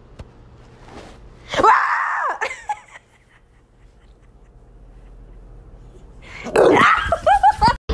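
A pit bull-type dog vocalizing in two bouts of whining, yowl-like cries that bend up and down in pitch. The first comes about a second and a half in; a longer one near the end is broken into several short rising-and-falling notes.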